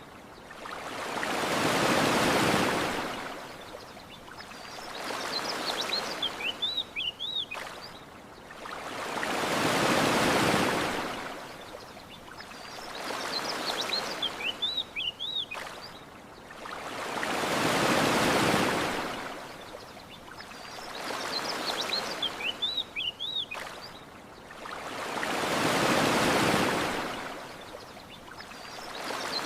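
Ocean waves washing onto a shore in slow, even swells, a big wave about every eight seconds with a smaller one between. Short series of high bird chirps come in the lulls between waves.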